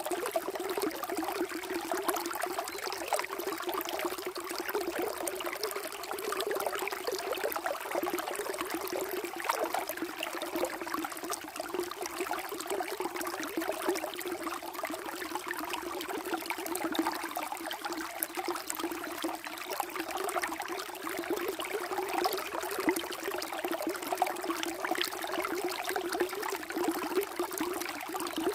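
Flowing water running and trickling steadily, with fine gurgling detail and no pauses.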